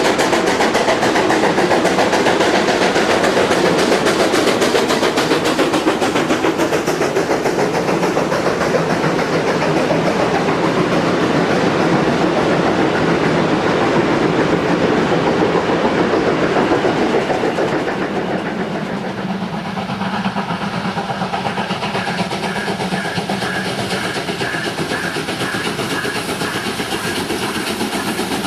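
A train running on the track, its noise easing off after about eighteen seconds, followed by a fainter stretch with an evenly repeating clicking.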